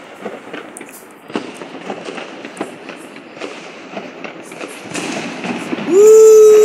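Fireworks crackling and banging at many points, some sharp and close, others duller. About six seconds in, a dog starts a loud whine that rises and then holds; it is louder than the fireworks.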